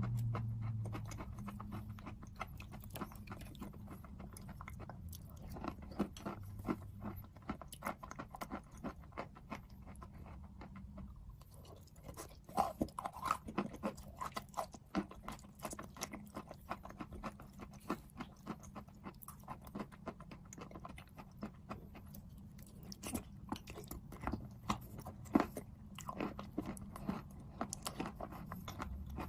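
A person biting and chewing something hard and crunchy close to the microphone, with many sharp crunches and a few louder bites, over a steady low hum.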